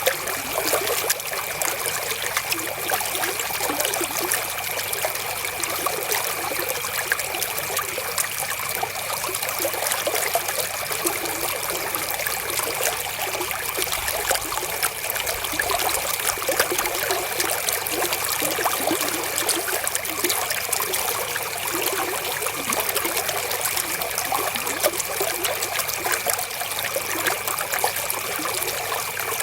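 River water flowing and trickling steadily, with a faint steady high tone underneath.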